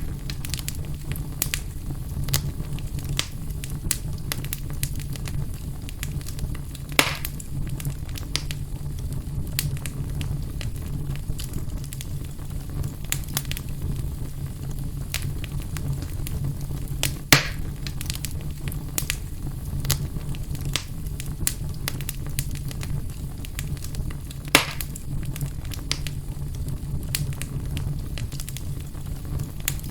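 Wood fire burning in a fireplace, crackling with many small sharp clicks and three louder pops spread through, over a steady low rumble.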